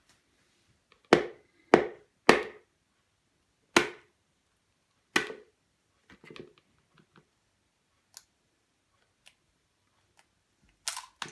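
Eggs knocked against a hard edge to crack their shells: five sharp taps in the first five seconds or so, then a few faint clicks and a last couple of knocks near the end.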